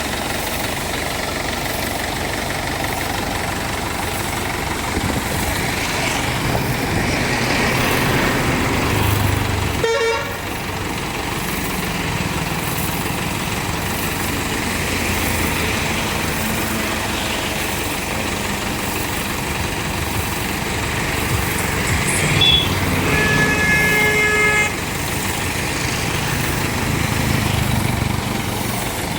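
Tractor engine running steadily. A vehicle horn sounds once, for about a second and a half, near the end.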